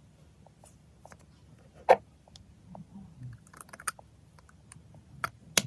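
Scattered light clicks and taps from makeup packaging being handled, with a sharp click about two seconds in and another near the end.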